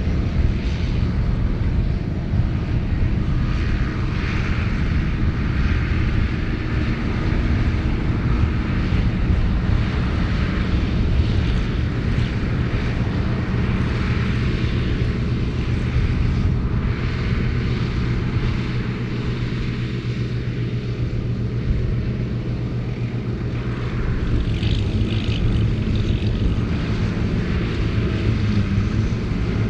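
Ford 8630 tractor's six-cylinder diesel engine running steadily under load, driving a Mengele SH40N forage harvester cutting silage. It makes a continuous drone that eases a little about two-thirds of the way through, then picks up again.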